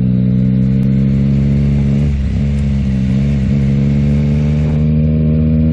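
Yamaha MT-09 SP's 890 cc inline three-cylinder engine running through a Yoshimura AT2 full exhaust, held at a fairly steady engine speed under way. It dips briefly twice, then begins to rise in pitch near the end.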